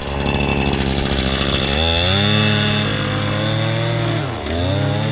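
Small petrol engine running fast, revving up about two seconds in and holding high, dropping briefly near the end, then revving again.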